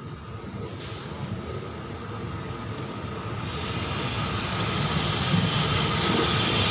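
Diesel railcar train approaching and pulling into the station, its engine and wheel noise growing steadily louder. A brief thin high squeal sounds about two seconds in.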